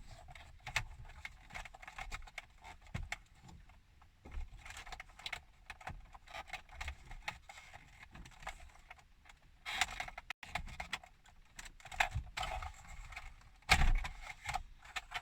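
Plastic dash trim and electrical connectors being handled and unplugged behind the fascia: scattered clicks, rattles and rubbing, with a louder knock near the end.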